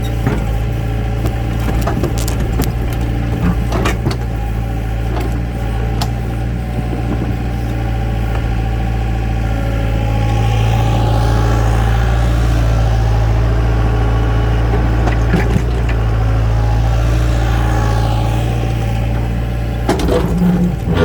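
A heavy work machine's engine running steadily with a deep hum, growing louder through the middle and easing back near the end. Scattered sharp knocks sound over it.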